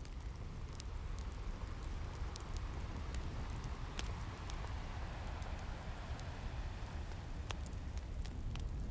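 Ocean waves over a steady low rumble, one wave building in and washing back out over several seconds, mixed with the scattered pops and crackles of a wood fire.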